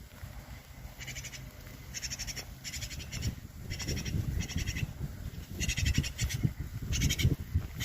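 Magpie chattering: about seven short, harsh rattling calls at irregular intervals, over a low background rumble.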